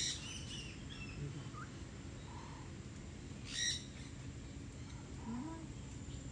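Birds calling: two short, loud calls about three and a half seconds apart, with softer chirps between them.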